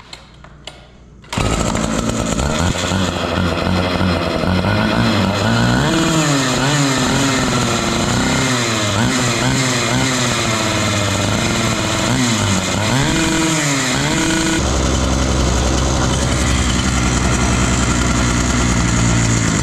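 Husqvarna K960 power cutter's two-stroke engine, its top end freshly rebuilt, running after an abrupt start about a second in. It holds steady, then is revved up and down repeatedly for several seconds before settling steady again. There is a slight hesitation coming off idle or low throttle, which the owner puts down to it still needing tuning.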